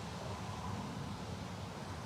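Wind buffeting the microphone: a steady, choppy low rumble with faint hiss above it.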